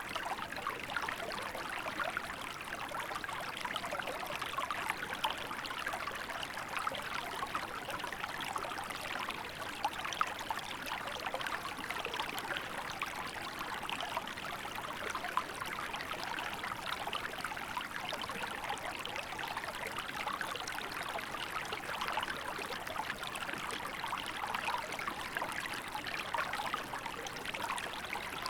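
Small river running steadily over rocks, with a constant rushing and fine trickling splashes.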